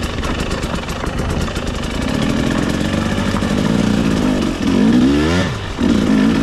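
300cc two-stroke dirt bike engine chugging at low revs, then pulling harder; about five seconds in it revs up and drops back, dips briefly, then picks up again.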